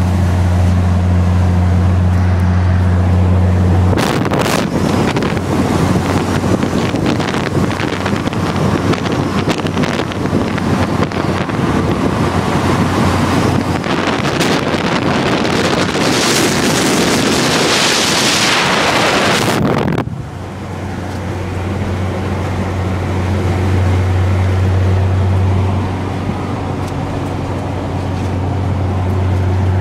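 BMW E21 engine droning steadily at cruising speed inside the cabin. About four seconds in, loud wind rush on the microphone takes over for some sixteen seconds as the camera is held outside the moving car. It cuts off suddenly and the steady cabin drone returns.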